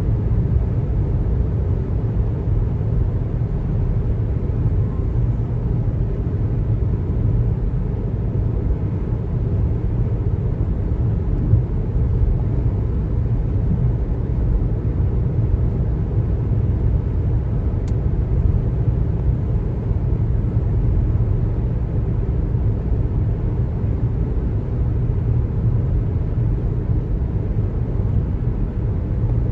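Steady low road rumble and tyre noise from a car driving on the highway.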